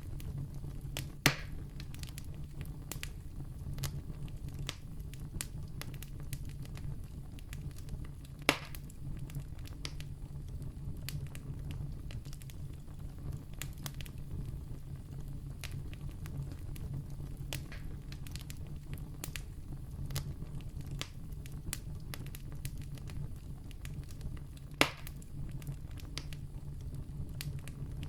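Wood campfire burning: frequent small crackles and ticks over a steady low rumble, with three louder sharp pops, about a second in, about eight seconds in, and near the end.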